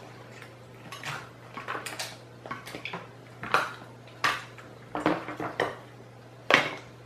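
Crab and lobster shells being cracked and handled while eating: a string of short, sharp cracks and clatters at irregular intervals, the loudest near the end.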